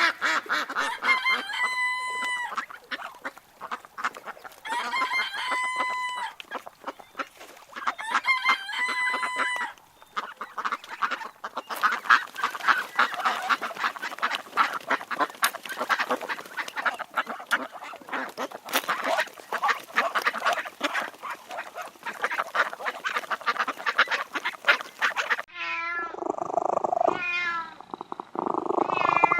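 Ducks quacking in a dense, rapid chatter, with three longer drawn-out calls in the first ten seconds. Near the end it cuts to a cat meowing.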